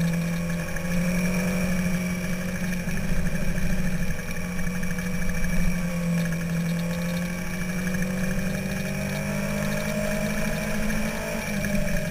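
Sport motorcycle's inline-four engine running under way at a fairly steady pitch, rising and falling a little through the corners, with wind rush on the microphone.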